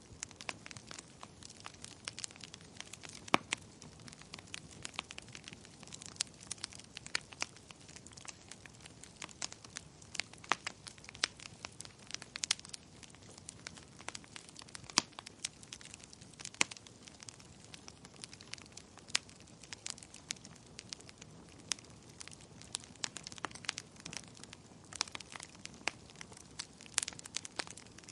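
Wood fire crackling in a fireplace: irregular sharp snaps and pops, often several a second, over a soft low hiss of burning, with now and then a louder pop standing out.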